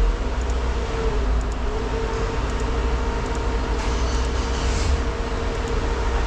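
Steady low rumble and hum of a running motor, holding one constant tone, with a few faint ticks.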